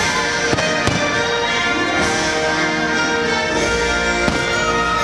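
Orchestral music playing throughout, with a few sharp bangs of aerial fireworks bursting over it.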